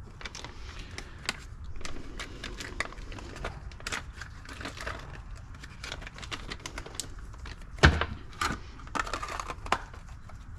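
Small clicks, taps and clatter of pressure washer pump parts being handled and set down on a workbench, with a few sharper knocks about eight and nine seconds in.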